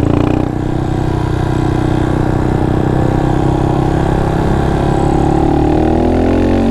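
Honda Monkey 125's single-cylinder engine running steadily, its pitch rising over the last couple of seconds as the bike speeds up.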